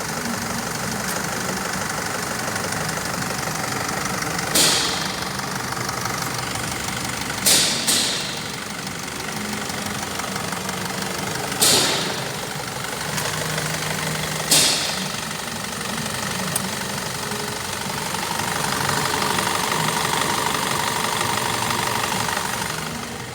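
Mazda 3 2.2-litre diesel engine idling and revved briefly five times, two of the blips close together, each dying back to idle.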